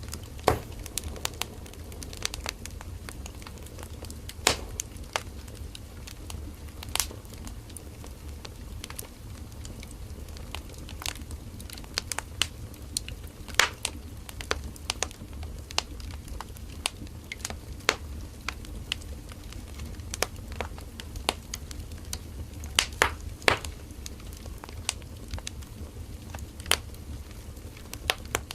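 Burning firewood crackling: irregular sharp pops and snaps at uneven intervals, a few louder than the rest, over a steady low rumble of the fire.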